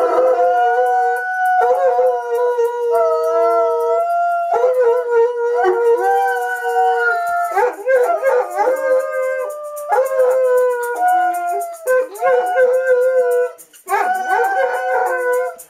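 Several dogs howling together in a chorus of long, wavering howls, breaking off and starting again every couple of seconds, with a short pause near the end.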